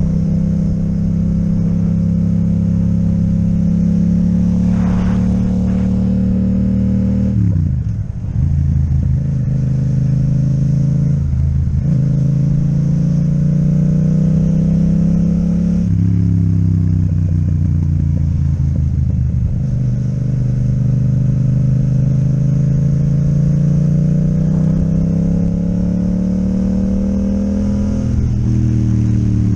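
Yamaha MT-07 parallel-twin engine with an Akrapovic exhaust, heard from the riding motorcycle: the engine note falls away sharply as the throttle closes, then climbs steadily under acceleration, dropping in pitch at an upshift about halfway through and again near the end.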